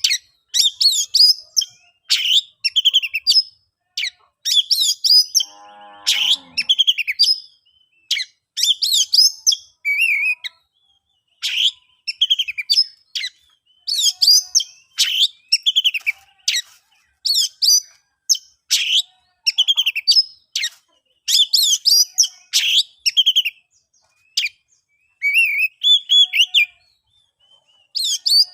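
Oriental magpie-robin (kacer) singing: loud, short whistled phrases, repeated about once a second with brief pauses. One brief lower note comes about six seconds in.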